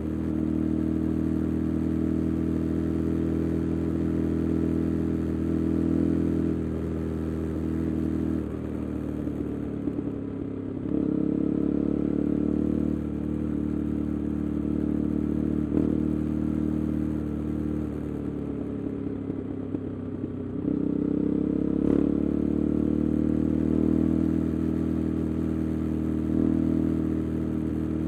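KTM 390 Adventure's single-cylinder engine running through an aftermarket Arrow exhaust with the resonator removed, heard while riding. The engine note holds steady, drops off about a third of the way in as the throttle closes, picks up again, sags slowly, and rises once more near the end.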